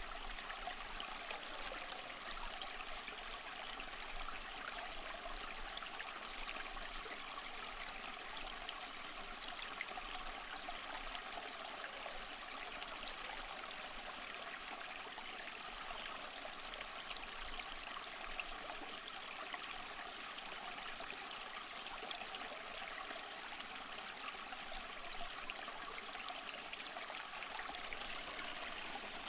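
A stream of running water flowing steadily, an even hiss-like rush with little low rumble.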